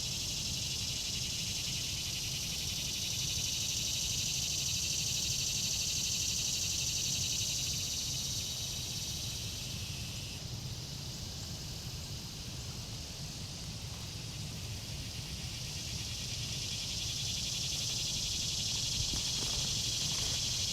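Steady chorus of insects, crickets or cicadas, shrilling throughout over a low background rumble, with its pitch band shifting a little about halfway through. A few footsteps or rustles come in near the end.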